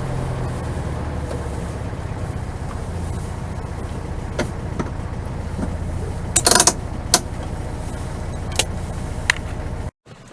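1969 VW 1500 Beetle's air-cooled flat-four engine running steadily on the move, a low drone with a few sharp clicks and rattles, the loudest cluster about two-thirds of the way through. The sound cuts off abruptly near the end.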